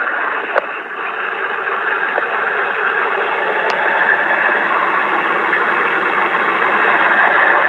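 Strong wind storm blowing hard, a steady rushing noise that builds slightly toward the end.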